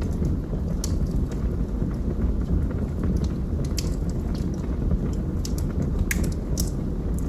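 Wood fire burning in a fireplace: sharp crackles and pops scattered irregularly over a steady low rumble of the flames, the loudest pop about six seconds in.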